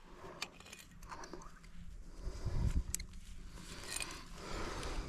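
Climbing hardware such as carabiners and quickdraws clinking and jingling with handling, mixed with rustling and a few low thumps against the microphone near the middle.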